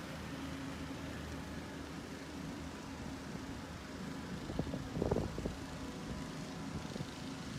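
Concrete pump truck running steadily while pumping out floodwater, with a steady hum and a short cluster of knocks about five seconds in.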